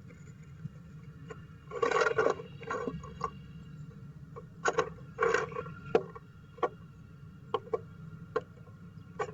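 Female downy woodpecker moving inside a wooden nest box: two bursts of scratching against the wood, about two and five seconds in, then several single sharp taps, over a steady low hum.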